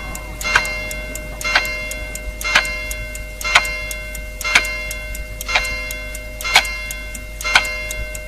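Clock chime striking the hour, one ringing bell-like stroke about every second, eight in all, its tones hanging on between strokes: the midnight strokes that bring in the New Year.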